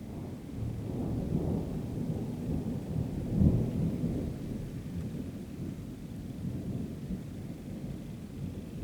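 Thunder rumbling during a night thunderstorm: it swells about half a second in, peaks with a sharp crack about three and a half seconds in, then rolls on and slowly dies away.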